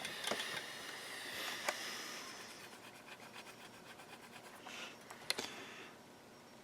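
Faint scratching and rubbing of a small metal tool tip on a printed circuit board, with a few light ticks, dying away near the end.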